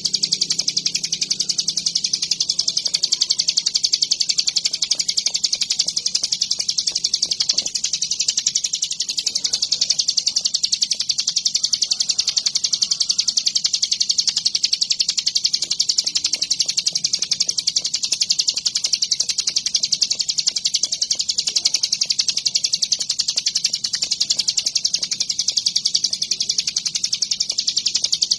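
Ciblek gunung (a prinia) singing a continuous, very rapid, high-pitched chattering song without a break.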